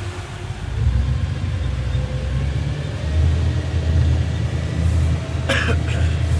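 Steady low rumble of a motorboat's engine mixed with wind buffeting the microphone, with a brief sharp noise about five and a half seconds in.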